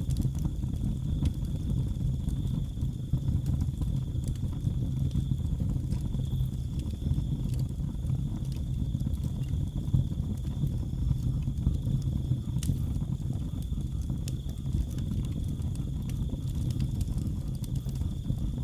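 Wood fire crackling in a fireplace, scattered sharp pops and snaps over a low steady rumble of the flames, with crickets chirping steadily in a high, thin tone.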